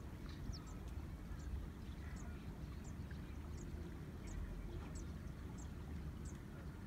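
A bird calling with short, high chirps repeated about every three-quarters of a second, over a steady low rumble of wind and water.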